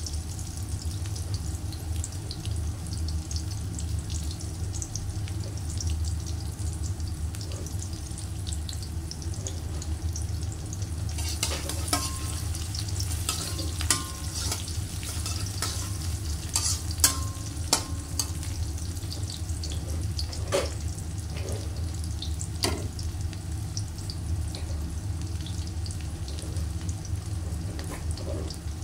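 Sliced shallots and garlic frying in oil in a metal wok, a steady sizzle with fine crackles over a low hum. Around the middle a spatula stirs them, scraping and clinking against the wok several times.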